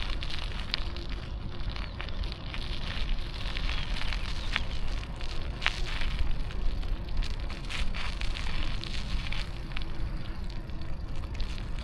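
Steady wind noise on the microphone and road noise while riding a bicycle, with scattered crackles and clicks throughout.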